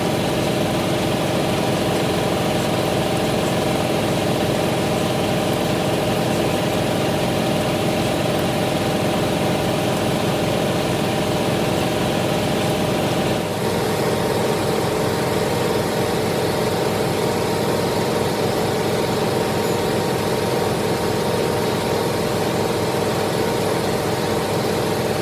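Heavy workshop machinery running steadily, an engine-like hum with an even low pulse. The sound changes abruptly about thirteen seconds in.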